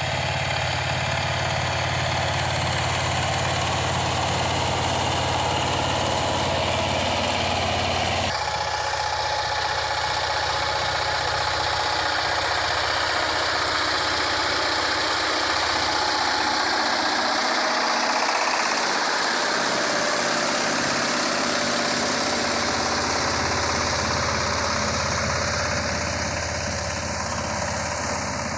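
Power tiller's 20 hp single-cylinder diesel engine running steadily with a knocking beat, its tone changing abruptly about eight seconds in.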